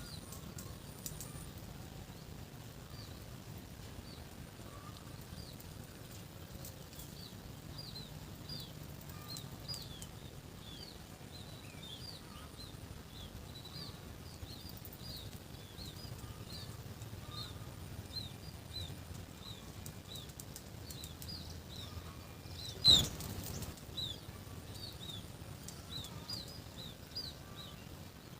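Small birds chirping, a long run of short high chirps repeating several times a second over a low steady rumble. A single loud thump about three-quarters of the way through.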